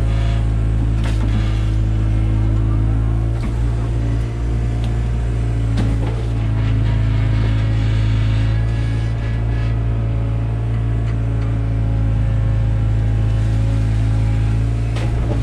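Takeuchi TB175 excavator's diesel engine running at a steady speed, with a few short knocks from the working machine.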